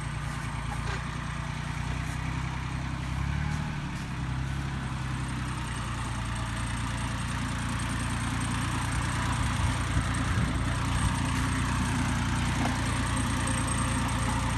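Yanmar YM169D tractor's diesel engine running steadily. Its note shifts briefly about three to four seconds in, then holds.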